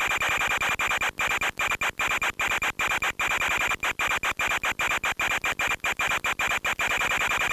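Audio from a long-range FPV radio video link: steady hissing noise with a constant high whine, cutting out briefly many times as the signal breaks up.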